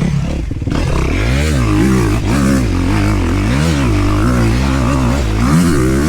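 Dirt bike engine revved up and down in short repeated bursts of throttle, with some clatter, then held in a longer rising rev near the end.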